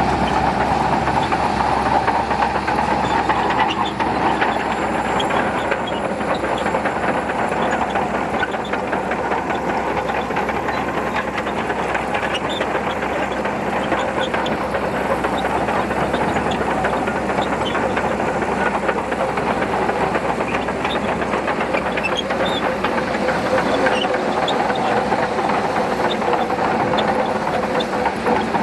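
Shantui bulldozer working: its diesel engine runs steadily under load while the steel tracks clank and rattle in a constant stream of clicks and knocks.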